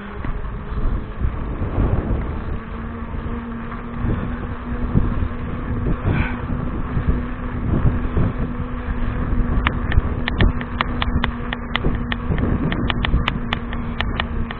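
Wind buffeting the microphone over the rumble and rattle of a mountain bike being ridden, with a steady low hum and a run of sharp clicks in the last few seconds.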